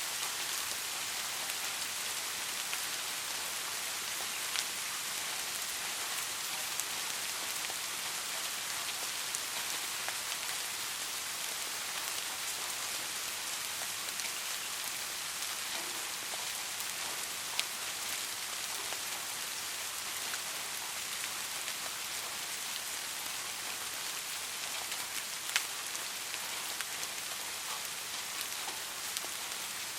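Steady soft rain, an even hiss with occasional individual drops ticking out more sharply, two of them louder about two-thirds of the way through.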